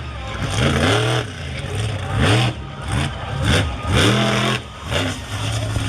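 Monster truck engine revved hard in repeated blips, its pitch climbing and falling about once a second.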